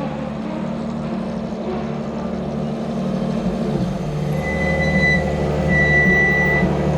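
Ferrari FXX K Evo's V12 engine running at low, steady revs, slowly growing louder. A thin high whine rises above it twice in the second half.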